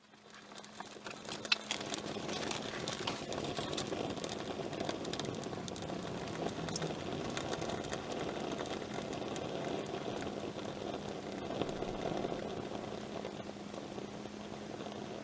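Wood campfire burning: a steady rush of flame with frequent small crackles and pops, fading in over the first couple of seconds, over a faint steady hum.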